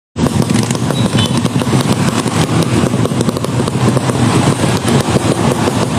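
Tuned underbone racing motorcycle engine running close by: a loud, steady, rough exhaust note.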